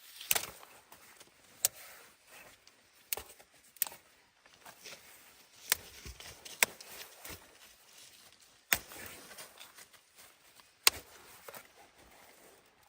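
About eight sharp knocks at irregular intervals, with faint rustling and handling noise between them.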